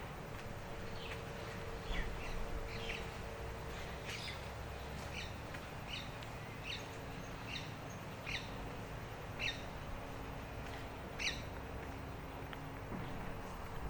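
A bird calling over and over with short, sharp, descending chirps, roughly one a second, over a faint steady outdoor background hum.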